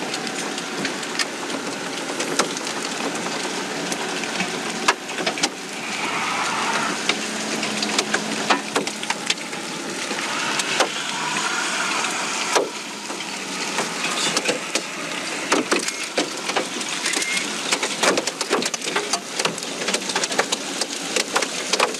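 Steady rain noise with scattered sharp taps and knocks, which come more often in the second half.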